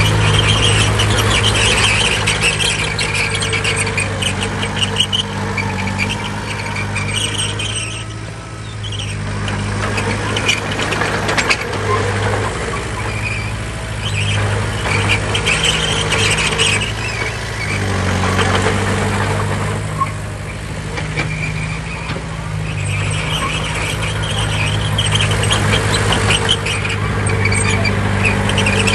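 Bulldozer diesel engine running steadily, with a high-pitched squeal that comes and goes, easing off twice as the machine quietens briefly.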